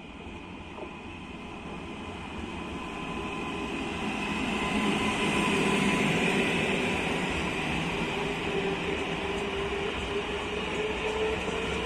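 Electric multiple-unit passenger trains moving through the station. The rail and wheel rumble grows louder over the first half, and a steady electric traction-motor whine is heard, its lowest tone creeping up in pitch near the end.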